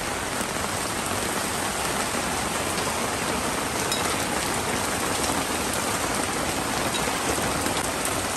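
Heavy rain pouring down, a steady dense hiss of downpour.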